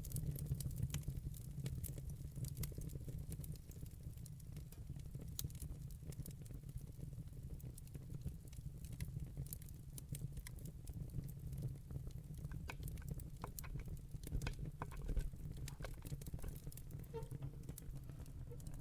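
Wood fire burning in a fireplace: a steady low rumble of the flames with scattered sharp crackles and pops, coming more often in the last few seconds.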